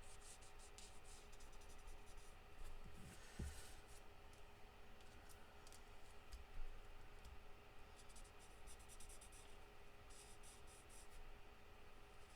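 Faint scratchy strokes of an alcohol marker's nib across paper card, coming in short runs of quick strokes, over a faint steady hum.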